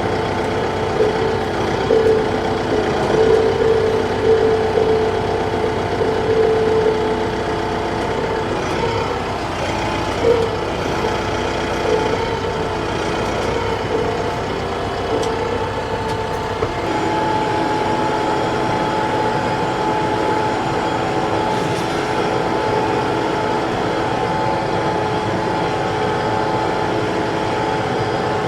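TYM T654 tractor's diesel engine running steadily while the tractor works with a grapple. About two-thirds of the way through, the engine note changes and the deep rumble drops away.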